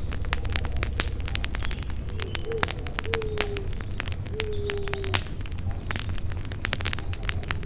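Campfire crackling and popping, with many sharp snaps over a steady low rumble of burning wood. A bird gives three short, low hooting calls about midway through.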